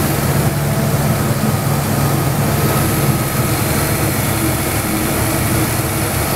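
Two Chevrolet Opala engines, a four-cylinder and a six-cylinder, running together at a steady, even speed while warming up.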